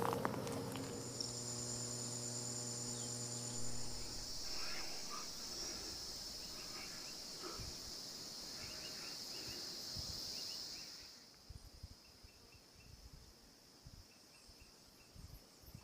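Insects, crickets or cicadas, keeping up a steady high-pitched drone that fades out about eleven seconds in, with scattered faint chirps. A low hum runs under it for the first few seconds.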